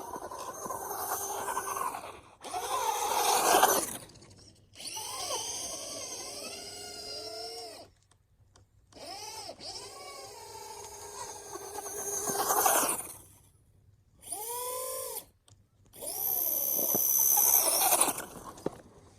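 Traxxas Rustler 2WD RC truck's electric motor whining in about six throttle bursts of one to four seconds each, the pitch rising and falling with short pauses between.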